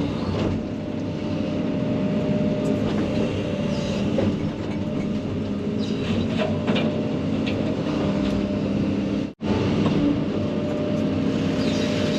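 Case 140 excavator's diesel engine and hydraulic brush-cutter mower running steadily, a constant machine drone with a few faint ticks. The sound cuts out for an instant about nine seconds in.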